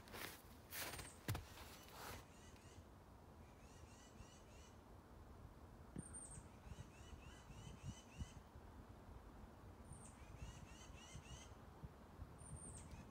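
Near silence with faint bird calls: short runs of small high chirps every few seconds.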